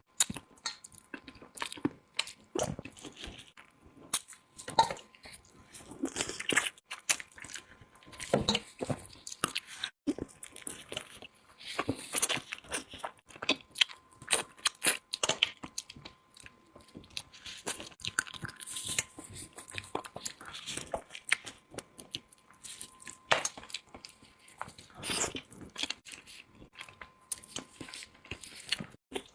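A person eating close to the microphone: steady, irregular chewing with crunchy bites and wet, squishy mouth sounds.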